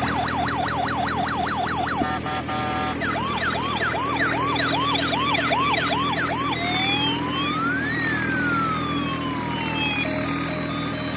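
Electronic toy-style siren cycling through its patterns: fast rising-and-falling whoops about four a second, a brief stepped two-tone warble, more whoops, then one slow wail that rises and falls over a few seconds. A steady low hum runs underneath.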